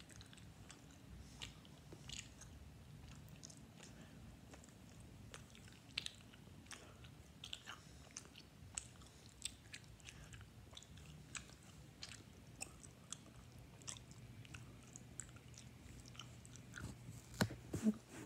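A person chewing a hot dog: faint, irregular mouth clicks and smacks, with a few louder ones near the end.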